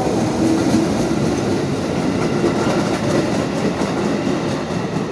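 Commuter Line electric train running past the platform, its wheels clattering over the rail joints with a steady rumble that eases off a little near the end.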